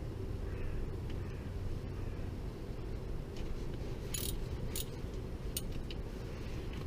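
A handful of light metallic clinks, a few in quick succession about two-thirds of the way in, over a steady low background hum.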